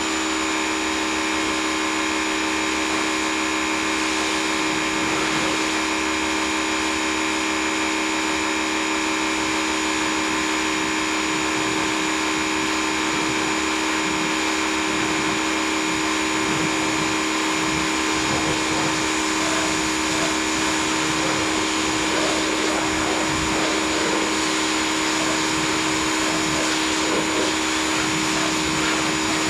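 W6 2600 PSI electric pressure washer running steadily under load: an even motor-and-pump whine over the hiss of the water spray.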